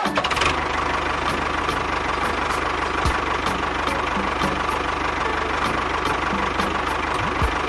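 An engine idling steadily with a fast, even chugging, starting abruptly at the beginning.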